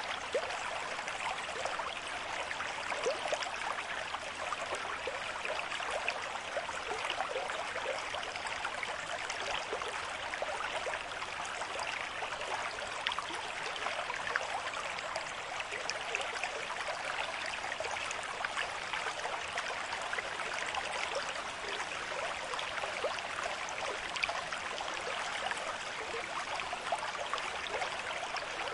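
River stream at moderate flow: a steady rush of running water with many quick little splashes and gurgles.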